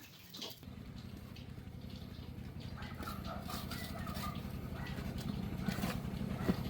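Win motorcycle's small single-cylinder engine starts about half a second in and runs with a fast, steady idle that slowly grows louder.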